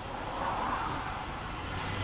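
Steady road and engine noise of a car, heard from inside the cabin on a dash camera's microphone.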